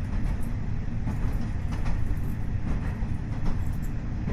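KiHa 40 diesel railcar with its DMF15HSA diesel engine running along the line: a steady low rumble with scattered, irregular clicks from the wheels on the rails.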